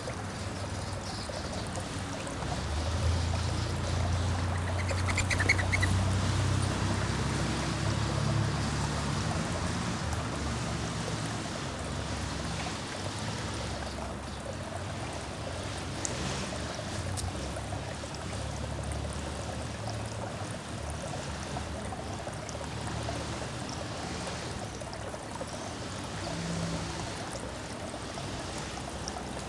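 Backyard outdoor ambience: a steady trickling, stream-like hiss, with a low rumble that swells a few seconds in and fades, and a brief bird call about five seconds in.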